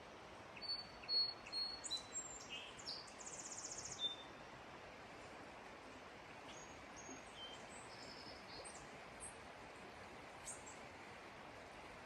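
Small birds chirping and calling in high, short notes, busiest in the first four seconds with a quick trill, then sparser calls, over a steady faint hiss of outdoor ambience.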